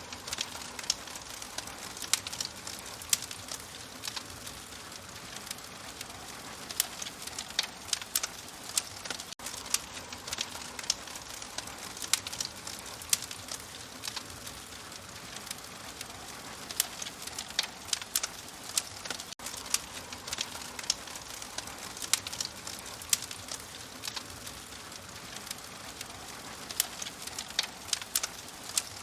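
Wood fire crackling in a fireplace: irregular sharp pops and snaps, several a second, over a steady hiss. It cuts out for an instant twice, about nine and nineteen seconds in.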